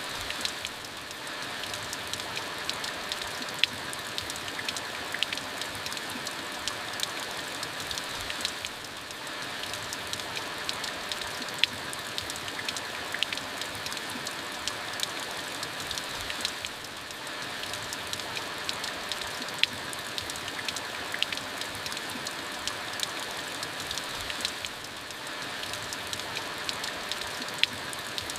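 Steady rain falling, with many sharp individual drop hits over an even hiss; the level dips briefly about every eight seconds.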